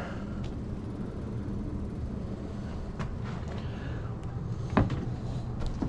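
A steady low machine hum, typical of HVAC equipment running, with a few faint knocks about three and five seconds in.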